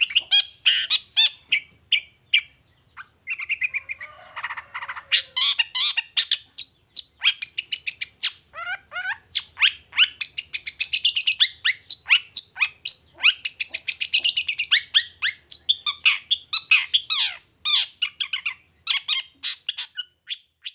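Long-tailed shrike (cendet) singing a fast, chattering song of sharp downward-sweeping notes, with a harsher buzzy stretch about four seconds in.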